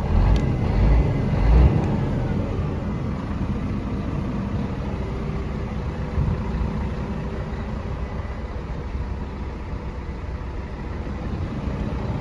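Scania P124L 420 tractor unit's 12-litre straight-six diesel engine running steadily, with a few loud low surges in the first two seconds.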